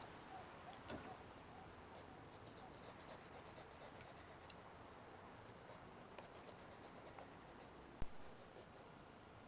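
Near silence, with faint, short ticks and scratches throughout and one sharp knock about eight seconds in.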